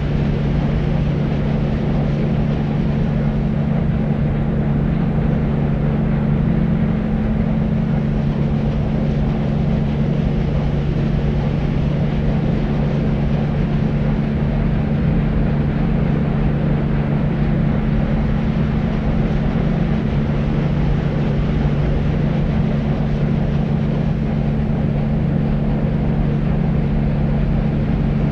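Deep white noise: a steady, low rushing hiss, strongest in the bass, with a low hum running through it.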